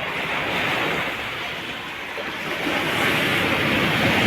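Sea surf washing onto a beach, a steady rush of breaking waves that swells louder about three seconds in.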